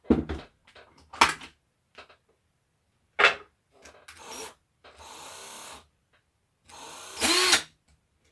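Bosch PSR 14.4 V cordless drill's replacement motor run in two short bursts, the second louder with a whine that rises and falls, amid a few sharp knocks of the drill being handled. The motor spins, but little happens at the output, so the gearbox is not driving properly.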